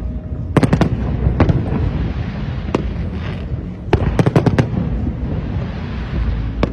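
Fireworks going off in a display: quick clusters of sharp cracks and bangs, the densest group about four seconds in, over a steady low rumble.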